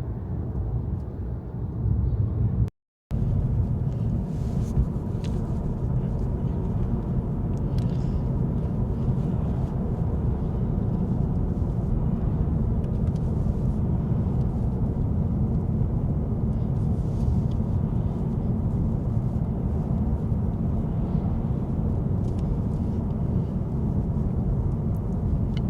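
Car driving at speed, a steady low rumble of road and engine noise, with a brief total dropout about three seconds in.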